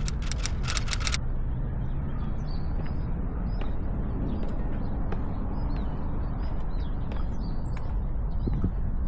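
Small birds giving short, faint, high chirps again and again over a steady low outdoor rumble, after about a second of rapid even ticking at the start.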